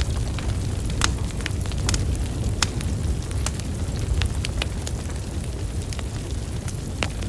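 Wood fire burning: a steady low rumble of flames with irregular sharp crackles and pops from the logs, a few louder snaps scattered through.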